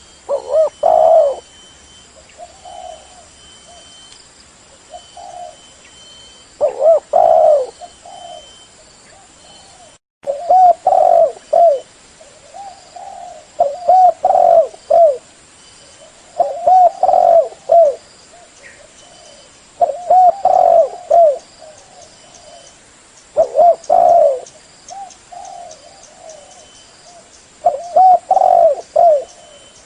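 Spotted dove cooing: loud phrases of several short coo notes, repeated about every three to four seconds.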